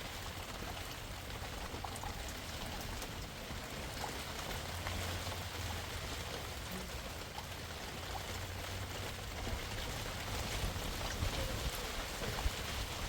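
Steady rain, with scattered drops ticking and a steady low rumble underneath.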